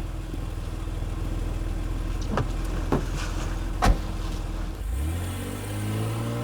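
Car engine running with a steady low hum, then revving up about five seconds in, its pitch rising. A few sharp knocks sound in the middle.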